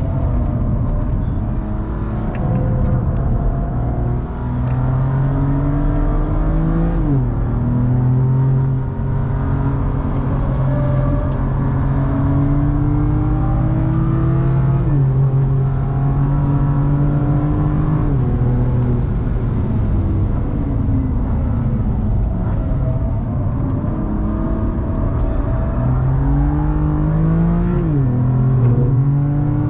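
BMW sports car's engine heard from inside the cabin under hard acceleration on track, its note climbing through the revs and dropping back sharply at each upshift, four times, with steady tyre and road noise underneath.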